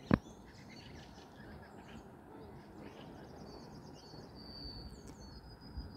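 Quiet outdoor background with faint, high birdsong: a quick run of chirps around the middle and thin whistled notes near the end. A brief tap sounds at the very start.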